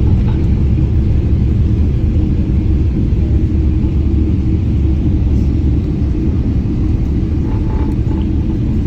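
Boeing 777 landing: a loud, steady low rumble of the airliner on the runway, without a clear engine whine.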